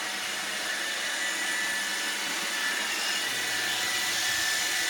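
Roomba robot vacuum running: a steady whir with a faint high tone over it.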